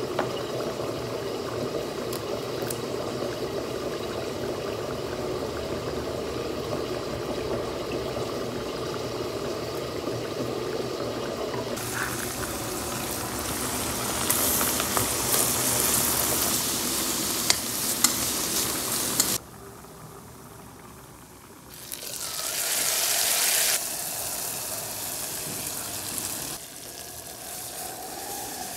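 Cooking on the stove: a steady frying and bubbling from the pots, then a louder sizzle from about twelve seconds in as onion goes into the hot pot where the steak was fried. The sizzle cuts off suddenly, returns briefly, and near the end water is poured into a pot of cooked beans.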